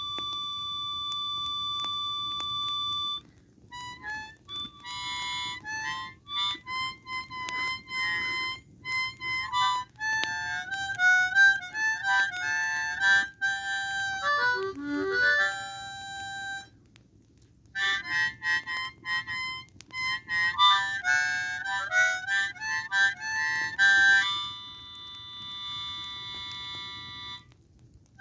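Blues harp (diatonic harmonica) playing a slow melody in single notes. It opens with one long held note, then moves through short phrases with a brief pause in the middle.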